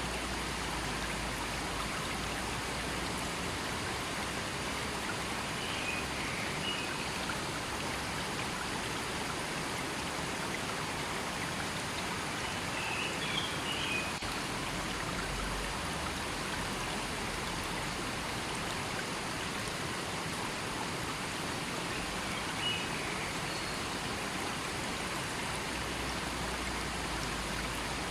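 River water flowing steadily over rocks, an even rushing noise, with a few brief high-pitched sounds about four times over it.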